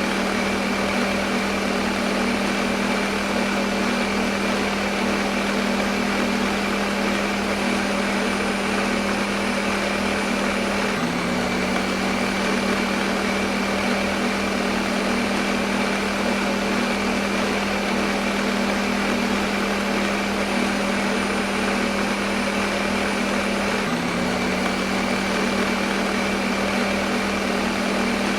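Electric kitchen blender running steadily at one speed: a constant motor hum with a high whine over whirring noise, played as white noise. The hum briefly dips and picks up again twice.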